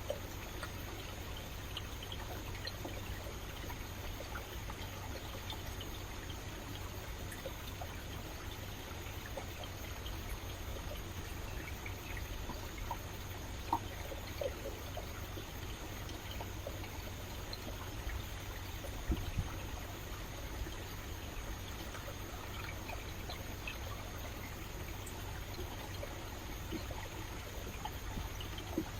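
Rainforest stream running with a steady trickling rush of water, and a few brief, sharper clicks.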